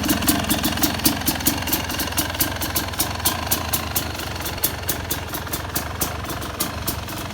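Yamaha YZ250X single-cylinder two-stroke engine idling with its ignition timing retarded by a shifted pulser coil, with a steady run of sharp ticks over the exhaust note. It gradually gets quieter over the stretch.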